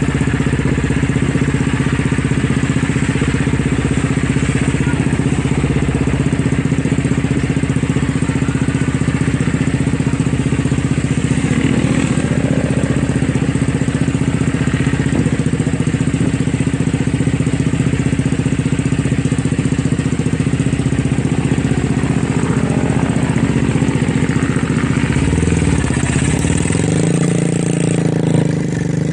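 Motorcycle engine idling steadily, its note shifting a few seconds before the end.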